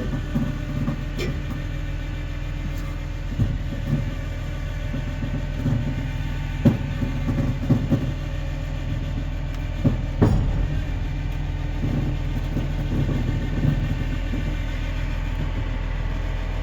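A car being drawn up onto a tow truck's tilted flatbed, with the truck's engine droning steadily underneath and several clanks and knocks from the bed, chain or car scattered through it.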